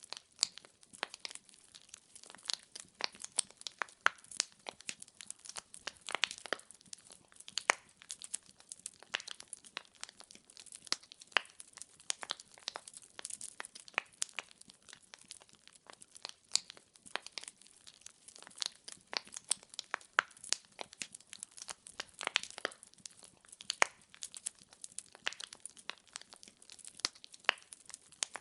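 Firewood burning in a fireplace, crackling with a dense, irregular run of small snaps and a few sharper pops.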